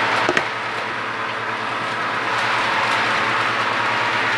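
HO scale model Aerotrain running along the layout's track: a steady whirr of its motor and wheels, with a short click about a third of a second in. It carries no sound decoder, so this is the mechanical running noise alone.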